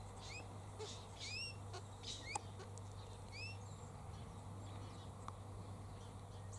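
A bird calling in short upward-sweeping chirps, four or five of them in the first three and a half seconds, over a faint steady low hum.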